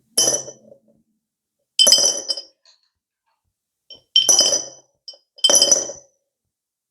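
Four sharp glass clinks, each ringing briefly with a bright high tone, spaced one to two seconds apart.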